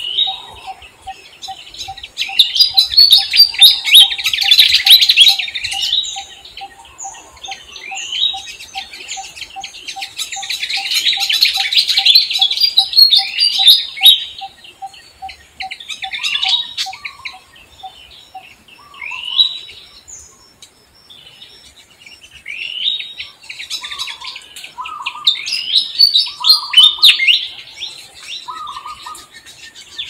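Birds chirping and twittering in busy bursts of rapid high calls, with quieter spells between. Under them a low note repeats evenly, two or three times a second, and stops a little past halfway; later, short mid-pitched calls come every second or so.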